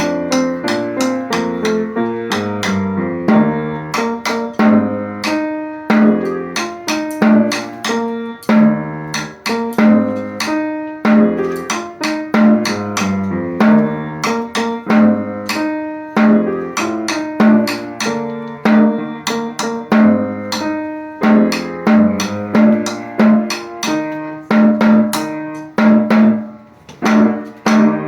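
Band music: pitched melody notes over a steady beat of snare and bass drum, stopping at the very end.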